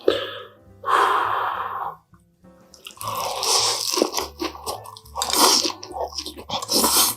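Close-miked eating sounds: crunching bites and chewing of crisp-fried food, in crackly runs about a second in and again from about three seconds on.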